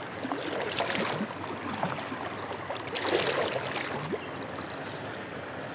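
Soft, irregular rustling and scuffing of fishing gear being handled while the leader is retied in a kayak, with louder scuffs about one and three seconds in.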